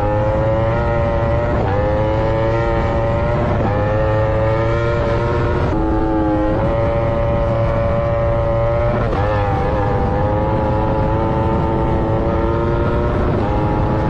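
A high-revving vehicle engine accelerating hard through several gears: its pitch climbs in each gear and drops briefly at every upshift, five or so shifts about two to three seconds apart.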